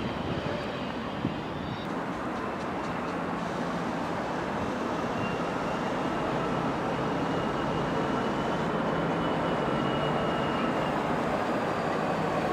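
A train running, a steady rumble that slowly grows louder, with a faint high whine and some gently rising tones over it.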